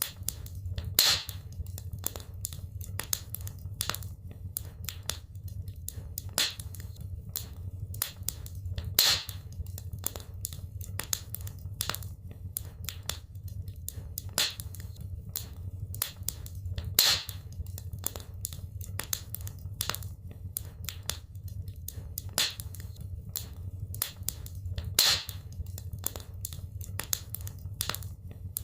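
Wood fire crackling in a fireplace: a constant run of small pops and snaps over a low steady rumble, with a louder pop about every eight seconds.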